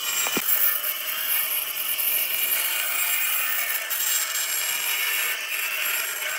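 A hand or power tool working wood, making a steady rasping noise, with a brief short tone just after the start.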